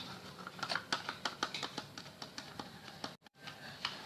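A stirring utensil clicking and tapping against a container while glue and hand soap are mixed into slime, a quick irregular run of light clicks. The sound cuts out for a moment about three seconds in.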